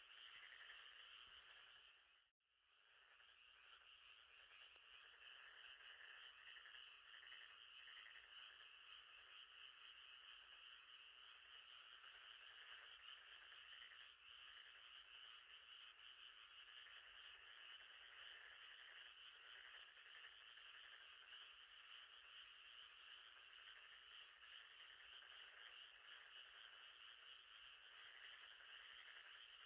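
Faint night chorus of frogs calling over a steady high trill. It drops out briefly about two seconds in and fades back up.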